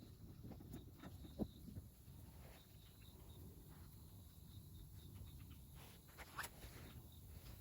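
Faint crackling of wood burning in a fire pit, with scattered small ticks and a couple of sharper pops.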